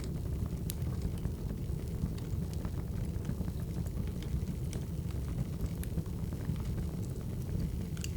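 Burning firewood crackling: scattered sharp pops and ticks over a steady low rumble.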